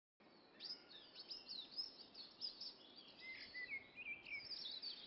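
Several songbirds chirping and singing: many quick, high, sliding chirps overlapping one another, starting a moment in, over a faint steady outdoor hiss.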